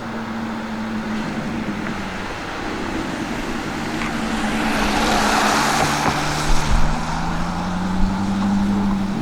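Alfa Romeo 8C Spider's V8 engine running, with a rushing noise that swells to a peak about five to six seconds in. The engine note then climbs slowly toward the end.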